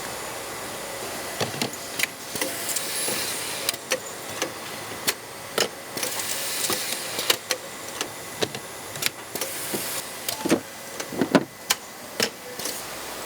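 Angle grinder housings being put together by hand: irregular sharp clicks and knocks of plastic and metal parts, a few louder ones near the end, over a steady factory hum.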